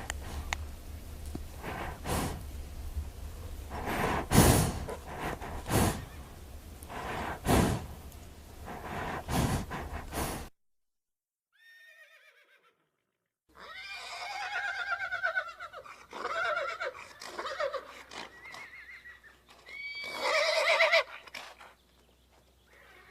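A horse: for about the first ten seconds a noisy stretch broken by several loud, sharp strokes, then, after a short silent gap, a horse whinnying in repeated neighs that fall in pitch, the loudest about twenty seconds in.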